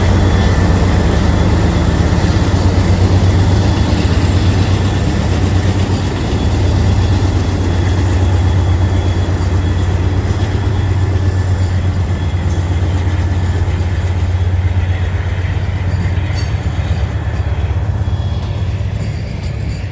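Norfolk Southern work train with Herzog ballast cars rolling past, a steady low rumble of wheels on rail that eases slightly near the end.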